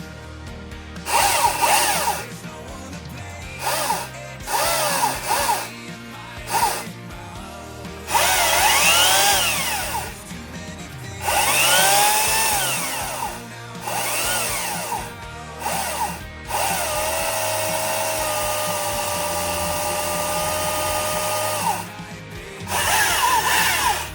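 STIHL battery chainsaw's electric motor revved in a series of short trigger pulls, its whine rising and falling in pitch with each pull, then held at a steady speed for about four seconds before it winds down. Background music plays underneath.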